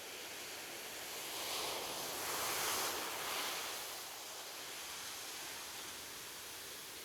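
Ocean surf: a steady wash of gentle waves, with one wave swelling and breaking about two to three seconds in before settling back to a soft hiss.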